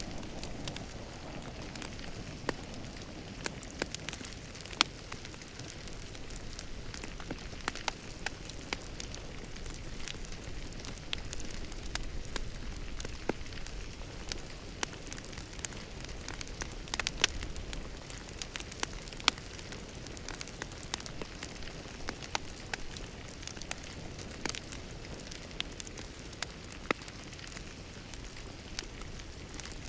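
Wood fire crackling in a fireplace: a steady hiss with irregular sharp pops.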